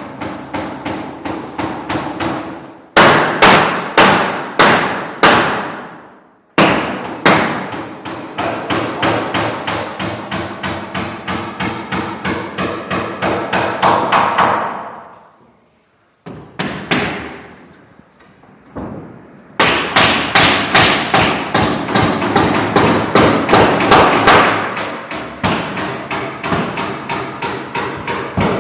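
Repeated hammer blows, about two to four strikes a second, in several long runs separated by short breaks.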